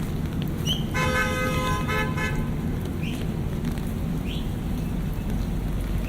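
A car horn honks about a second in, held for over a second with a brief break, over steady city street traffic noise. A few short, high rising chirps are heard.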